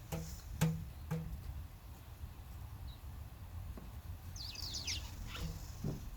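A small bird gives a quick burst of falling chirps about four and a half seconds in, over a steady low rumble. The first second holds the last few evenly spaced plucked notes of background guitar music.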